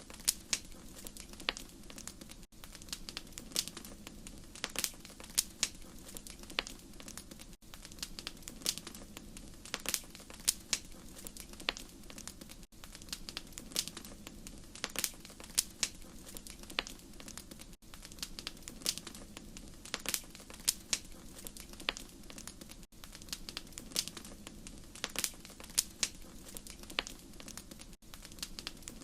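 Wood fire crackling in a fireplace: irregular sharp pops and snaps over a soft steady hiss, with a brief dropout about every five seconds where the recording loops.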